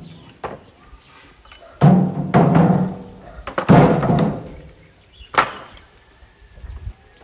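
Heavy wooden beams or planks thrown down onto a pile: about four loud, irregular hollow knocks, each ringing out briefly.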